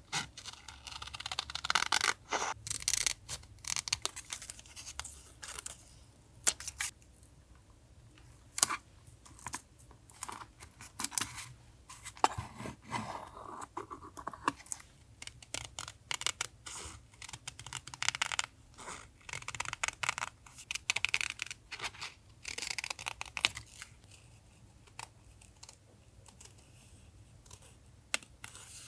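Paper collage materials being handled at close range: paper and stickers rustling and tearing, with crisp taps and clicks at irregular intervals.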